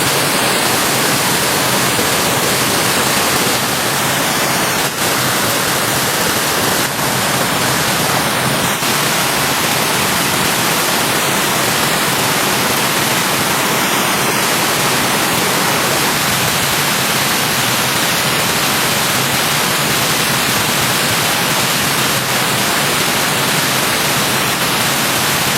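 Rain-swollen stream water rushing close by, a steady, even hiss.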